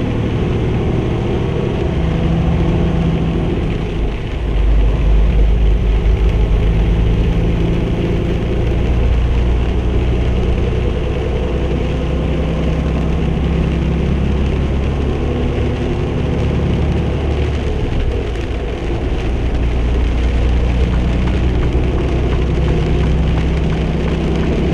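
Semi-truck's diesel engine droning with road noise inside the cab while driving in pouring rain, with a steady hiss of rain and tyre spray. The engine grows louder about four seconds in, then settles back.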